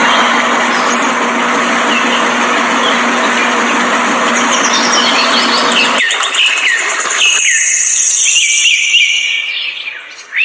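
A small motor running with a steady hum while birds chirp; the motor sound cuts off suddenly about six seconds in, leaving the birds chirping.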